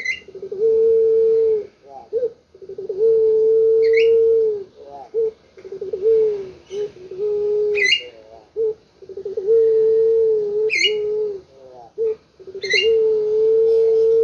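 Puter pelung dove (domestic Barbary dove) cooing: a repeated phrase of a few short rising coos ending in a long, drawn-out steady coo, about five times. Short high chirps from another bird come between the coos.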